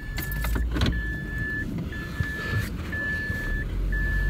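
Car engine running just after starting, with the dashboard warning chime beeping steadily about once a second. A single knock comes a little under a second in.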